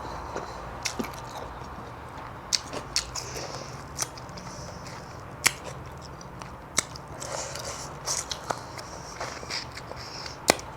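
Close-miked chewing and wet mouth sounds of a person eating, with sharp clicks at irregular moments, the loudest a little past halfway and near the end.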